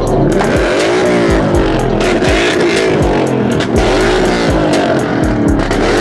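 A car engine revved hard again and again, its pitch repeatedly climbing and dropping, over loud music with a heavy, regular bass beat.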